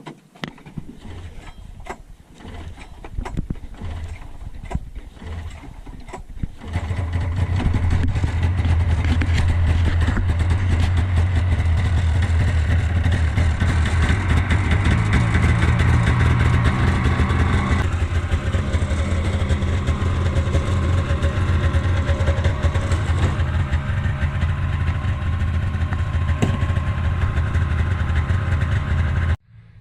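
Scattered irregular knocks for the first six seconds or so. Then a small off-road vehicle engine starts about seven seconds in and runs steadily at a low, even pitch, dropping slightly about halfway through, until the sound cuts off abruptly near the end.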